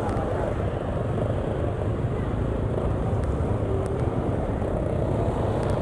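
Steady low rumble of a vehicle on the move: engine drone with road and wind noise, at an even level throughout.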